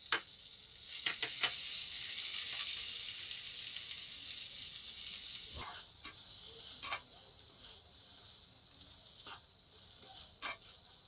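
Chopped dry fruits (cashews, almonds and lotus seeds) sizzling steadily in hot desi ghee in a nonstick kadai. A spatula stirring them makes a few scattered clicks and scrapes against the pan.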